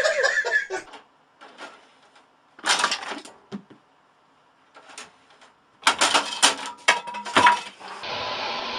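A laugh trails off, then comes a few separate bursts of clattering, rattling knocks with quiet gaps between them. A steady hiss starts near the end.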